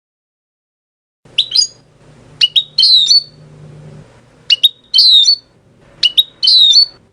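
European goldfinch singing: a run of short, bright twittering phrases, each a quick note followed by a fast falling trill, starting about a second in.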